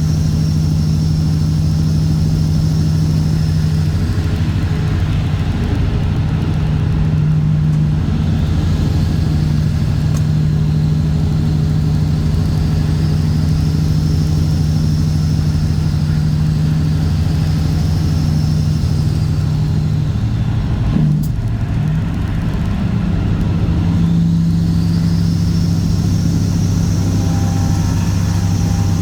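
Straight-piped Cat C15 ACERT diesel engine in a Kenworth W900 running steadily under way. Its low note breaks briefly about two-thirds of the way through, then picks up again at a slightly higher pitch.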